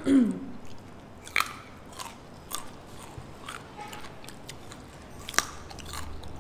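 Crunchy biting and chewing close to the microphone: raw carrot sticks and fried chicken being eaten, with a handful of sharp crunches spread through, the loudest about five seconds in. A short falling hum from a voice opens it.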